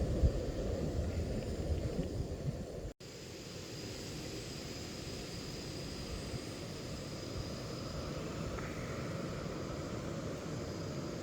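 Portable camp stove burner running steadily under a pot of water coming up to the boil. There is a louder low rumble for the first few seconds, then a sudden break, then an even, steady burner sound.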